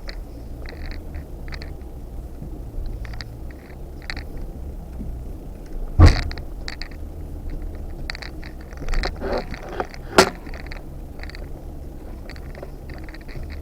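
Off-road vehicle crawling slowly along a rocky trail: a steady low engine rumble with scattered clicks, creaks and rattles, a heavy thump about six seconds in and a sharp knock near ten seconds.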